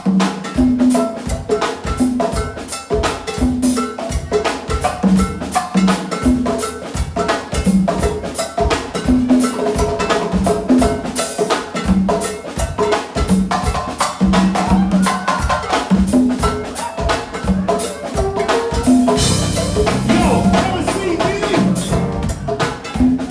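Live band music: a drum kit and hand percussion playing a steady, busy groove over a repeating low riff.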